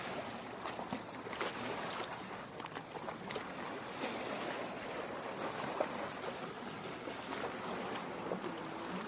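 Lake water lapping at the shore: a steady wash of water with many small splashes and trickles.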